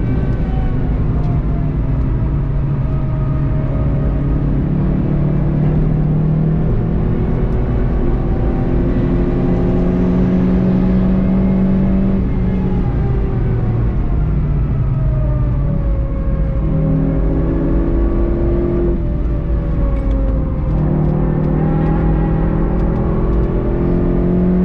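VW Golf 7.5 GTI TCR's turbocharged 2.0-litre four-cylinder engine under hard acceleration, with tyre and road noise. The pitch climbs steadily, then breaks off and drops back at gear changes about halfway through and several times more over the last ten seconds.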